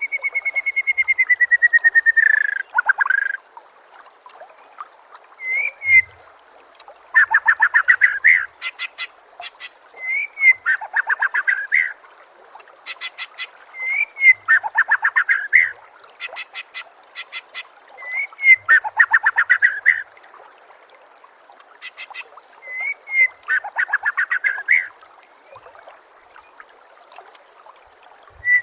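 White-rumped shama (murai batu) song used as a training recording. It opens with a long, slowly falling whistle, then repeats one phrase about every four seconds: a short rising note followed by a quick run of falling notes.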